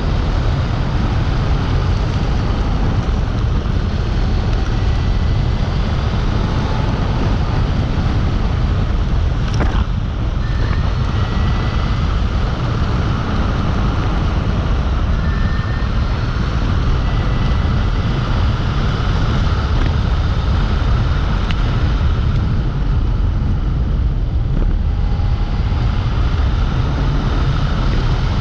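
Wind rumbling on the microphone of a Dualtron Compact electric scooter being ridden, with faint, short high whines from the scooter coming and going.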